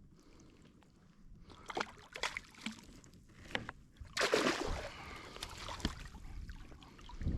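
Water splashing and sharp knocks against a fishing kayak as a hooked trevally is landed, with a louder burst of splashing about four seconds in.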